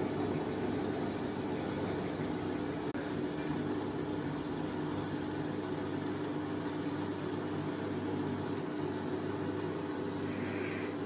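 Gorenje WaveActive washing machine running with a steady motor hum, holding at an even pitch with no rise or fall.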